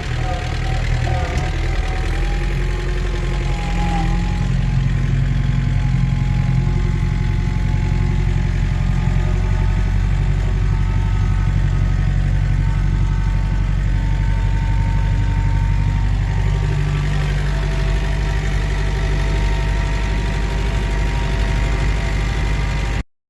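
New Holland TCE50 compact tractor's diesel engine running steadily, its pitch shifting slightly a couple of times. It cuts off abruptly near the end.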